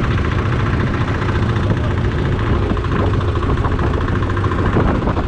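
Fishing boat's engine running steadily, a loud low hum with a fast, even pulse.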